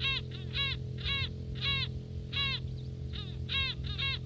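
Gulls calling: a quick series of short, harsh calls, each falling in pitch, about two a second, with several birds overlapping.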